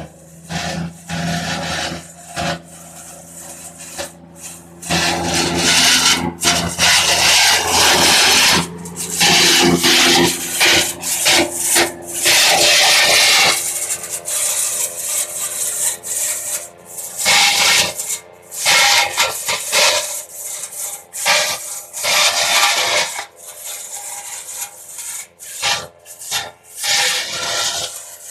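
Kubota MU5501 tractor's diesel engine running steadily under loud, irregular harsh rasping bursts from the stalk-cutting machine chopping dry tur and cotton stalks.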